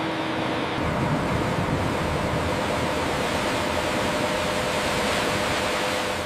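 A steady rushing noise with a faint, steady hum underneath. The noise shifts in character a little under a second in.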